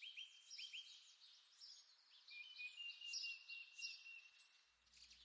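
Faint birdsong: a few short chirps, then a long run of quick high notes from about two seconds in, with other birds calling higher.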